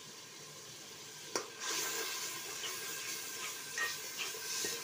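Spice masala of tomato, ginger and garlic sizzling in hot oil in a metal pot as it is fried. About a second and a half in, a spatula knocks against the pot and stirring begins, and the sizzle gets louder, with a few small scrapes and clicks.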